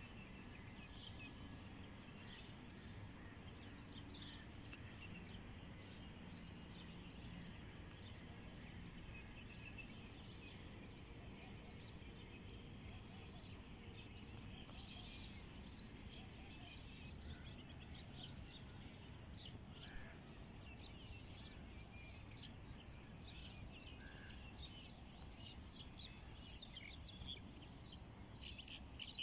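Small birds chirping with many short, high calls that keep repeating, denser near the end, over a low, steady rumble of outdoor background noise.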